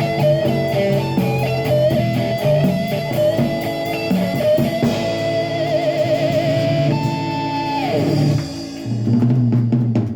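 Live blues band playing an instrumental ending: electric guitar lead over bass and drums, with a wavering held note, a note sliding down about eight seconds in, then closing chords.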